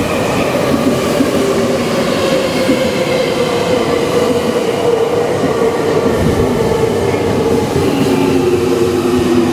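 Semboku Rapid Railway electric train pulling into the station and braking: a whining tone from its motors falls slowly in pitch over the rumble of the wheels, and lower tones come in near the end as it slows further.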